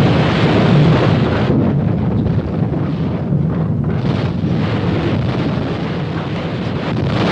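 Loud, continuous rumbling of a nuclear explosion and its blast, as a film sound effect, heaviest in the low register and thinning in the higher part for a couple of seconds mid-way.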